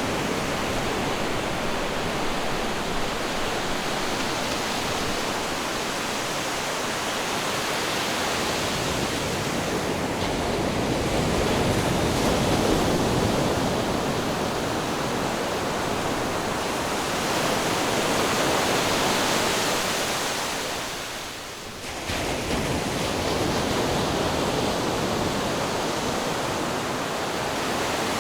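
Ocean surf: a continuous rush of waves washing on a shore, slowly swelling and easing, with a brief drop in level about three-quarters of the way through.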